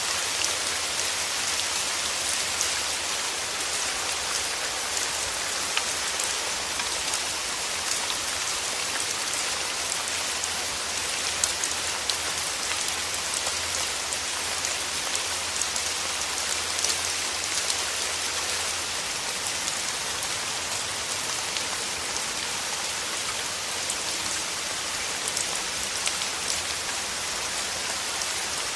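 Steady rain falling, a dense hiss of raindrops with many small individual drop hits.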